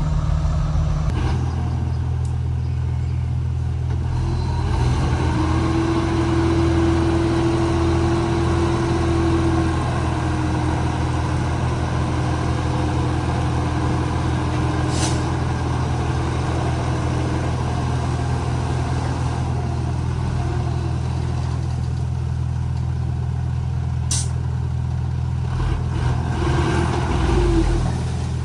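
Komatsu D31P bulldozer's diesel engine running steadily under work. A higher steady whine joins in about five seconds in and fades after about ten, returns briefly near the end, and two short sharp clicks come in the middle.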